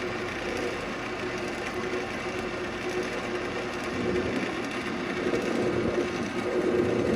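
A Central Machinery wood lathe runs with a steady hum while a carbide turning tool cuts into a spinning ambrosia maple bowl blank. From about four seconds in the cutting grows rougher and louder.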